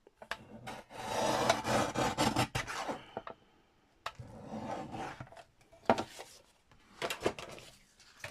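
A paper cutter's blade drawn through thick card in rasping strokes: a long stroke about a second in, another around four seconds in, then shorter scrapes and clicks near the end.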